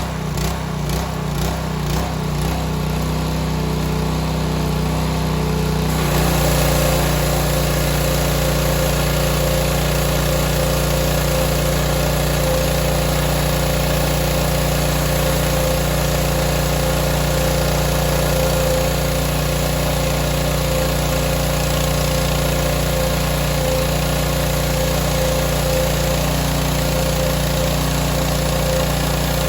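Small gasoline engine of a BE pressure washer running steadily, loud. It pulses unevenly at first, then about six seconds in settles into a fuller, noisier steady run.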